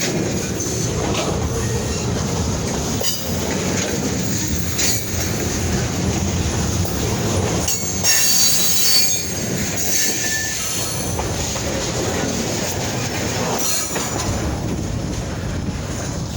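Freight train cars rolling steadily past close by, wheels clattering over the rails with a high squeal from the wheels.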